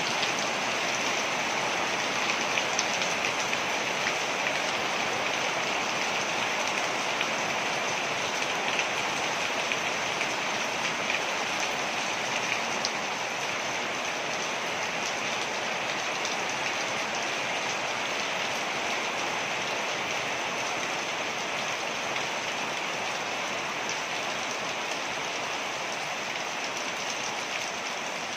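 Waterfall: a steady, even rush of falling water splashing, with fine patter throughout.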